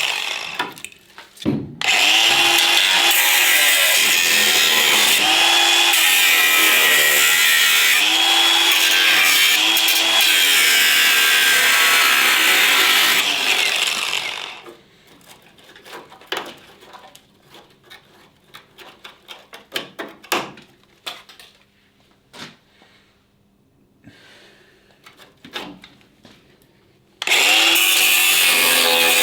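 Angle grinder cutting the rusted sheet-metal battery tray, its whine dipping and recovering in pitch as it bites. About halfway through it stops, leaving a run of light metallic clicks and knocks, then starts up again near the end.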